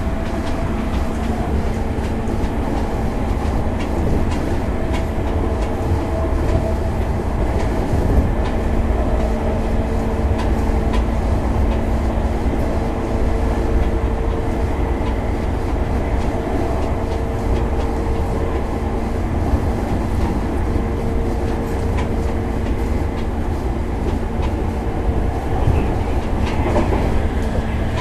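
Running sound inside a JR 205 series 5000-subseries electric motor car (MoHa 205-5029) at steady speed: a constant low rumble of steel wheels on rail with scattered rail-joint clicks, over a steady two-note hum from the traction motors and gearing.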